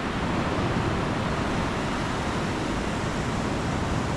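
Steady rush of ocean surf on the beach, mixed with wind on the microphone.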